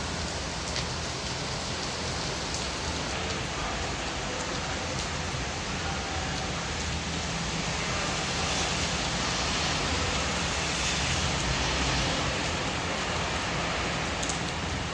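Typhoon rain and wind, a steady dense rush of noise with a low rumble underneath, growing a little louder about eight seconds in and easing slightly near the end.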